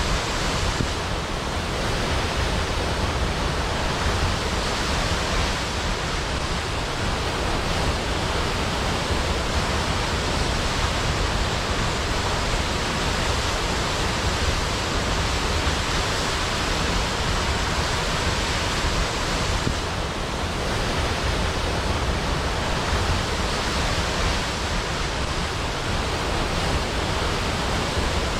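Large waterfall pouring steadily into a pool, a constant rushing roar with no change in level.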